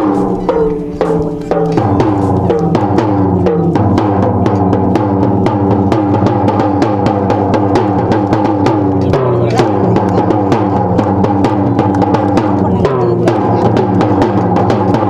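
Music with fast, dense drumming over a pitched accompaniment, steady and loud, getting fuller about two seconds in.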